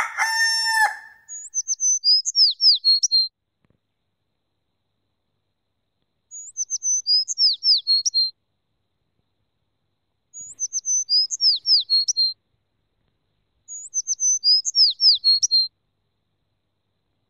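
A pitched tone fades out in the first second. Then a songbird sings a short phrase of quick, high, falling notes four times, about every four seconds, with dead silence between the phrases.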